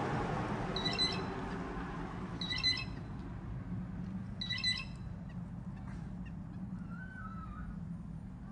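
A bird giving three short, harsh squawking calls, each a quick cluster of notes, spaced about one and a half to two seconds apart, over a steady low hum. A faint wavering whistle comes near the end.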